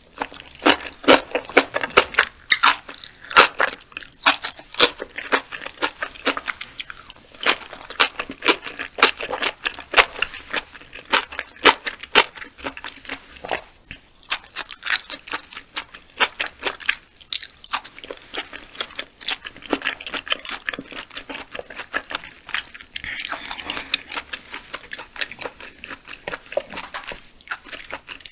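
Close-miked chewing of raw yellowtail sashimi: a dense run of quick mouth clicks and smacks, several a second, with a few short pauses.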